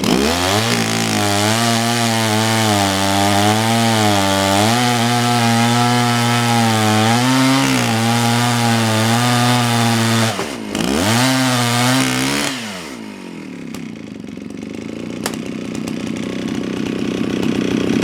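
Gas two-stroke chainsaw running at full throttle as it cuts into a cherry log, its pitch wavering under load. About ten seconds in the revs dip sharply, rise again briefly, then drop to a quieter idle.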